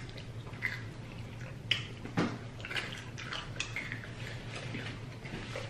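Someone chewing breaded fried chicken close to the microphone: irregular crunches and wet mouth smacks, with a low steady hum behind them.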